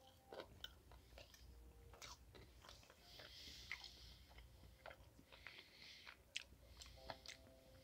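Faint, close-miked chewing of a spicy tuna sushi roll: soft, wet mouth clicks and smacks at an irregular pace.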